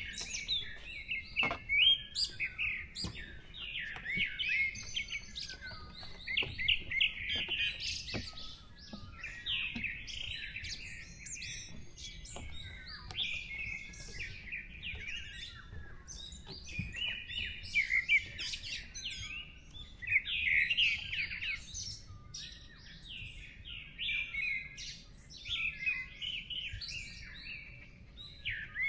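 Several small songbirds singing and chirping at once, a dense run of quick overlapping chirps and trills.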